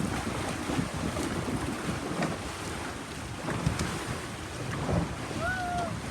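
Wind buffeting the microphone over water washing and splashing around a moving boat, with scattered small knocks. A brief high call rises and falls about five and a half seconds in.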